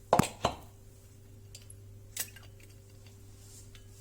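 Sharp clicks or knocks: two in quick succession just after the start and a softer one about two seconds in, over a faint steady hum.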